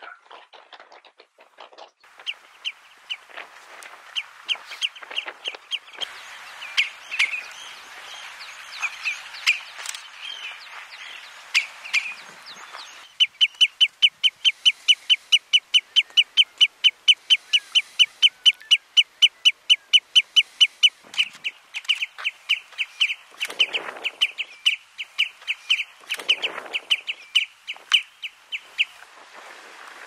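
A bird calling over and over in short, sharp notes. At first the notes come irregularly, a few a second; about 13 seconds in they become a fast, steady series of about five a second for several seconds, then loosen and stop near the end.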